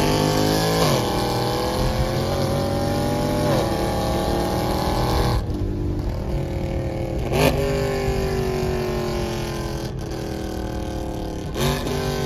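Ford Mustang GT's V8, built with full bolt-ons on E85, heard from inside the cabin. Its pitch sags slowly, then jumps up sharply about four times.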